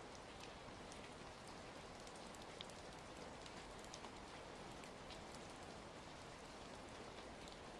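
Quiet, steady rain, with scattered faint crackles of a wood fire mixed in.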